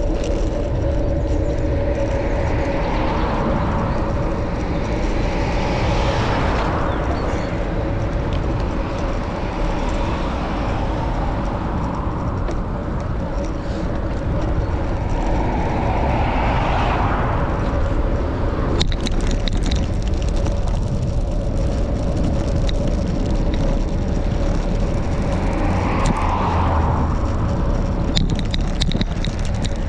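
Steady wind rumble on the microphone with road and tyre noise from a touring bicycle being ridden, a faint steady hum running under it and a few swells in level.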